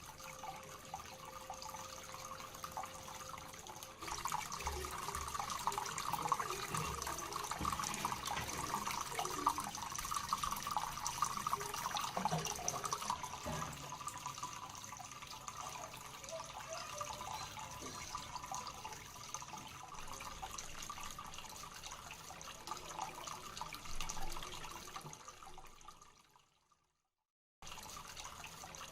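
Water trickling and splashing steadily down a small cement waterfall fountain into an aquarium, broken by a gap of about a second of silence near the end.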